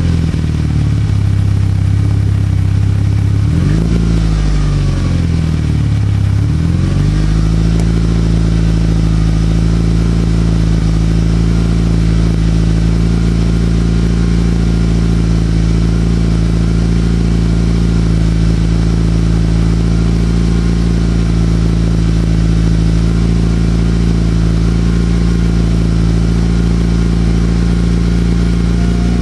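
Mitsubishi Lancer Evolution VIII MR's turbocharged 4G63 inline-four running through a Milltek exhaust; the engine speed dips and rises twice in the first several seconds, then holds steady.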